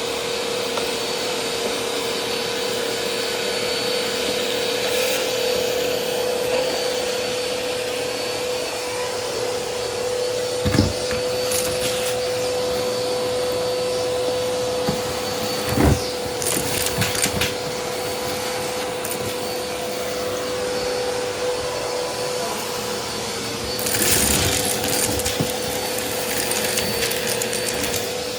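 Vacuum cleaner running steadily, its motor holding a constant hum over a rush of airflow. Two sharp knocks come partway through, along with several spells of crackly rattling.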